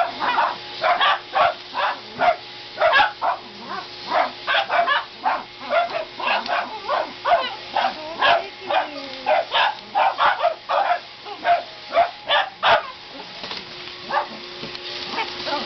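Dogs barking rapidly and repeatedly at a running vacuum cleaner, about two sharp barks a second, with a short lull near the end. The vacuum's steady hum sits faintly underneath.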